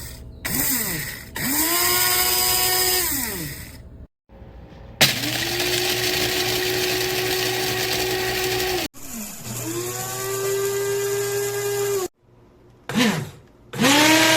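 Hamilton Beach 80350R blade coffee grinder's motor run in pulses: a short burst, three runs of a few seconds each, then two quick bursts near the end. Each run rises in pitch as the blade spins up and falls as it stops.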